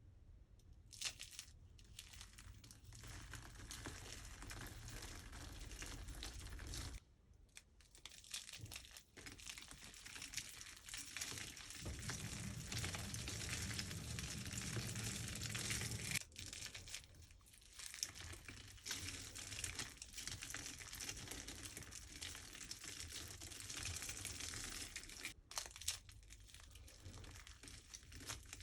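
Dry, brittle soap crunching and crackling as it is worked by hand, in long dense runs with a couple of short pauses.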